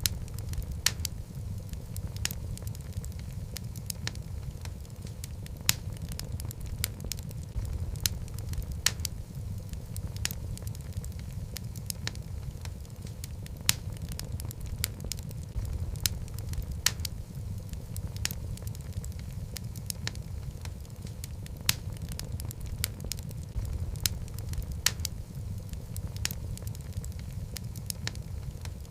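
Wood fire burning in a fireplace: a steady low rumble of flame with irregular crackles and several sharper pops from the logs.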